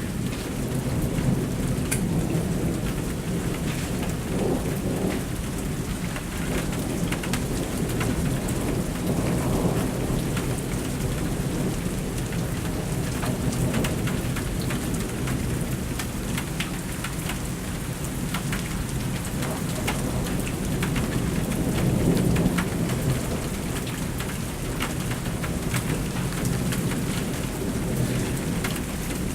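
Thunderstorm: steady rain falling with thunder rumbling almost without a break, swelling about ten seconds in and again, loudest, about twenty-two seconds in.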